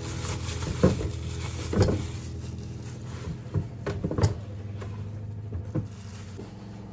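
Several sharp knocks and clatters at irregular spacing, about six in all, over a faint steady low hum.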